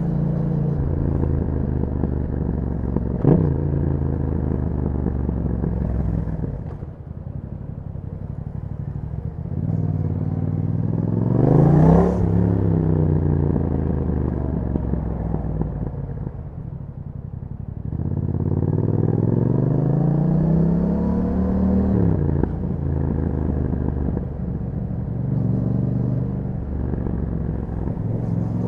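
Yamaha MT-07 parallel-twin engine through an Akrapovic exhaust, riding on the move: the engine note climbs in pitch under hard acceleration and falls away as the throttle closes, twice pulling up to a high peak, with a short sharp crack a few seconds in.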